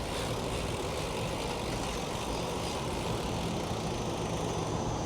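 Steady street traffic noise, with a vehicle engine humming low and even.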